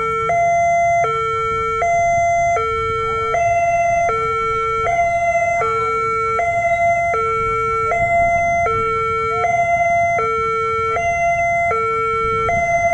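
Railway level-crossing warning alarm sounding its two-tone signal, switching evenly between a low and a higher tone about every three-quarters of a second, over a low rumble.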